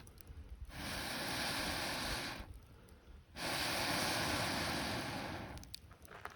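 Two long, steady blowing breaths in a row, each about two seconds, blown onto the campfire to liven the flames.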